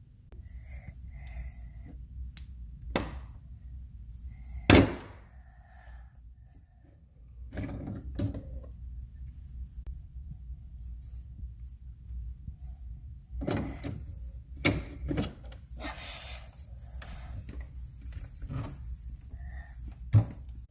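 Scattered plastic clicks and knocks from a refrigerator's water-filter cover and cartridge being handled, pulled out and fitted, the sharpest knock about five seconds in and a cluster later on. A low steady hum runs underneath.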